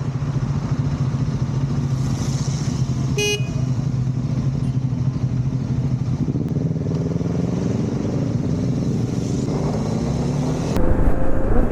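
Triumph Scrambler 400X single-cylinder engine running steadily on the move, with one short horn toot about three seconds in. Near the end the engine gets louder and its pitch climbs as it accelerates.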